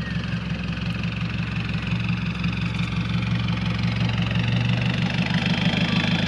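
A four-wheel drive's engine idling steadily at low revs.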